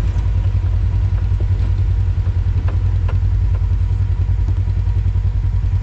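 A vehicle engine running at a steady idle with a deep, even rumble, and a few faint knocks over it.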